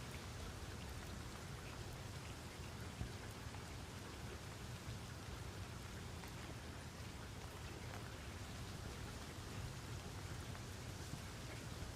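Steady rain falling, a continuous hiss with many small drops pattering on a surface and one sharper drop tick about three seconds in.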